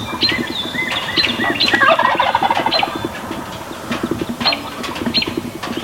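Wild turkey toms gobbling repeatedly, with a loud rattling gobble about two seconds in, over many short chirps from songbirds.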